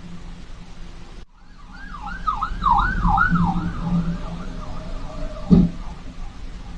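Emergency-vehicle siren in a fast rising-and-falling yelp, about two cycles a second, starting about a second and a half in and fading over the next few seconds, over steady road noise. A single sharp thump comes about five and a half seconds in.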